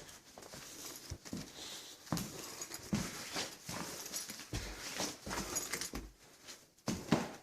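Irregular footsteps and scattered knocks and scrapes, a few a second at most, from someone moving through a gutted house.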